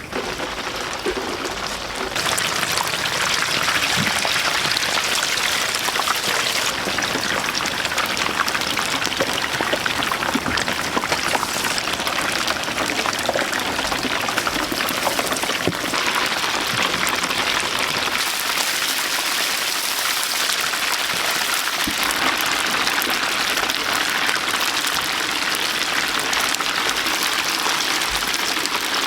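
Chicken deep-frying in a vat of hot oil: a dense, steady crackling sizzle that gets louder about two seconds in.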